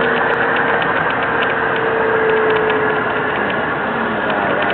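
Scania 143M heavy recovery truck towing a bus, its running noise mixed with continual irregular rattling and clicking from the rig, and a faint steady whine that fades out about three seconds in.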